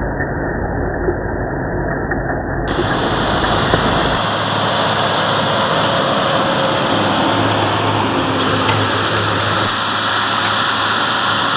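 SAME Diamond 215 tractor's diesel engine running steadily under load while pulling a plough.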